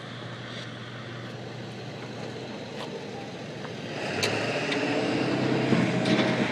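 Steady engine-like running noise with a low hum, growing louder about four seconds in.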